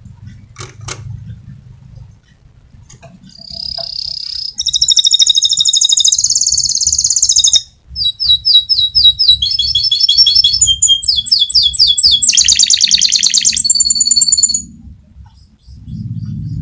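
Domestic canary singing a long rolling song: high, rapid trills and buzzy rattles of quickly repeated notes, one phrase after another. It starts about three seconds in and stops about two seconds before the end.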